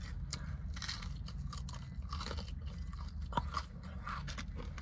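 Close-up crunching and chewing of crispy fried chicken wings, a run of short crackly bites over a steady low hum.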